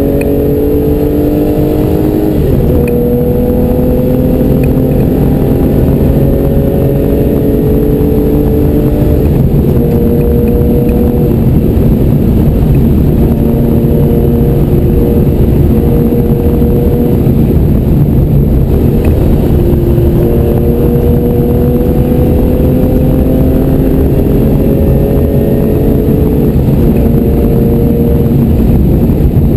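Porsche 964's air-cooled flat-six engine under hard load, heard from inside the car, its pitch climbing and dropping back at each gear change several times, over constant wind and road noise.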